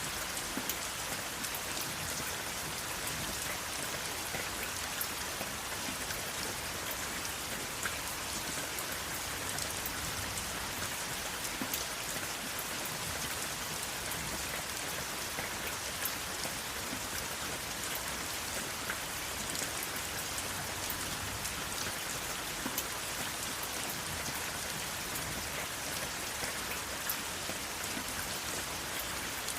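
Steady rain falling, an even hiss with many separate raindrops pattering on a hard surface, and no thunder.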